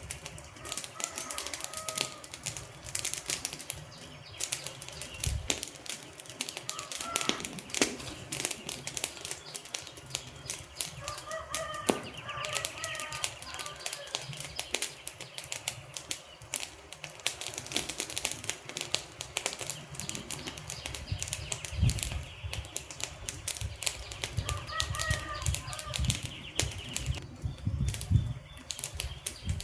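Wood fire burning, with dense, irregular crackling and popping over a low rumble of flames.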